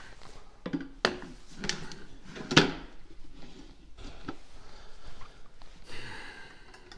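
Heavy lead weight blocks being set into a tractor ballast box: several dull clunks in the first few seconds, the loudest about two and a half seconds in, then quieter shuffling.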